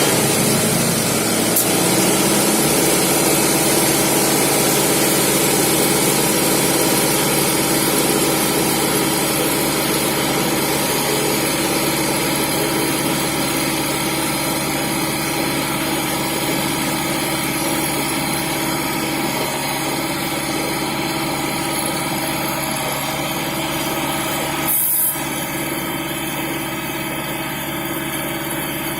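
Engine of road-repair machinery running steadily, with a brief change in the sound about 25 seconds in.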